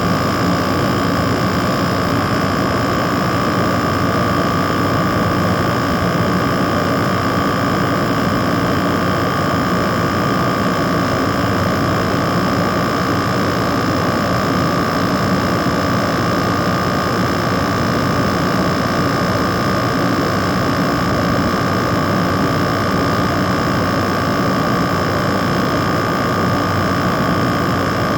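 LG window air conditioner running with a steady fan rush and compressor hum, a few constant tones held above it without change.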